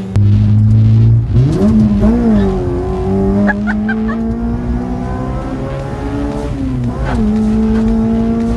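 Honda Civic FD's swapped K20A2 four-cylinder engine driven hard through its aftermarket headers and full exhaust, heard from inside the cabin. The revs climb and drop several times with gear changes, and it holds steadier near the end.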